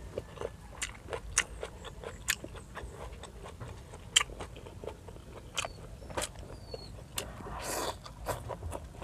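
Close-miked eating of fresh seaweed: irregular crunchy snaps and wet mouth clicks as it is bitten and chewed, with a noisy sound lasting about a second near the end.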